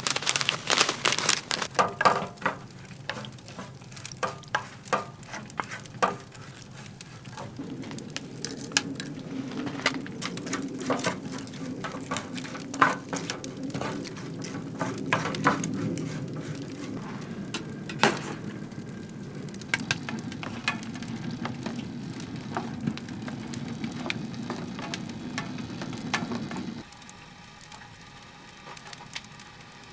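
Food sizzling in a pan, with scattered clicks and scrapes of a utensil stirring. The sizzle starts about seven seconds in and cuts off abruptly near the end.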